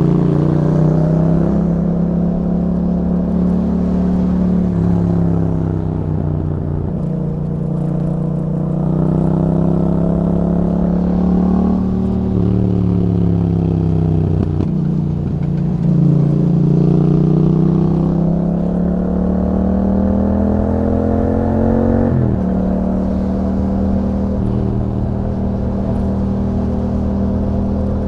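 Yamaha MT-07's 689 cc parallel-twin engine through an Akrapovic exhaust with a DB killer, under way on the road. The revs climb and fall several times as the throttle is opened and closed, dropping sharply about twelve seconds in and again about twenty-two seconds in, then hold fairly steady.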